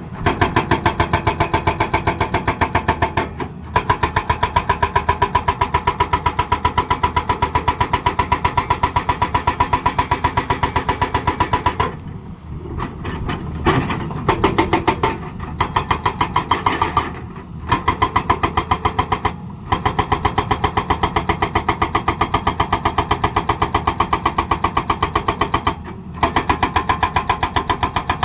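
Hydraulic breaker on a Tata Hitachi excavator hammering in a fast, even train of blows. It stops briefly several times and starts again.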